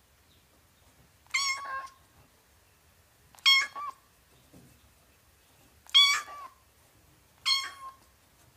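Kitten meowing four times, short high-pitched mews spaced about two seconds apart.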